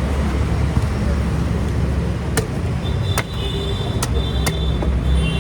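Four sharp knocks of a machete chopping open a coconut, with a brief metallic ring, over steady street-traffic rumble.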